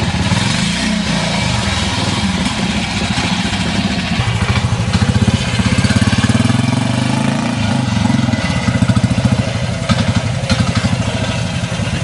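Classic trials motorcycle engine running at low revs, the throttle opened and closed so the engine note rises and falls repeatedly through the middle and later part.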